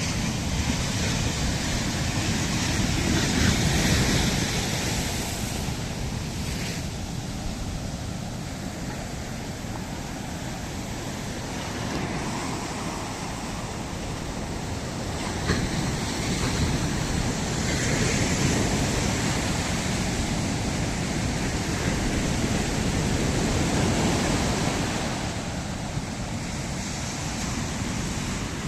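Ocean surf breaking and washing up a sandy beach, a steady rush that swells and fades with each wave.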